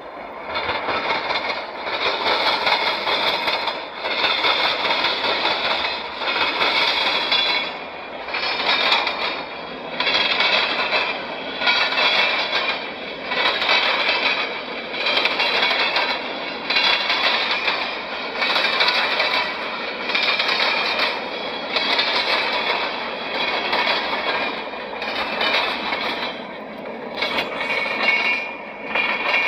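A train rolling past, its wheels on the rails making a loud steady rush that swells and falls about every second and a half as each car goes by.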